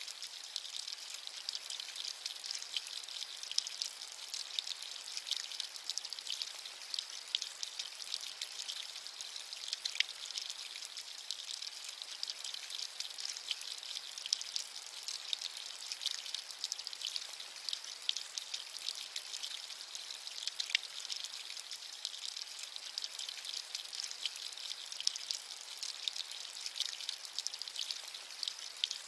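Steady rain: an even, high-pitched hiss dense with the small ticks of individual drops, with almost no low rumble.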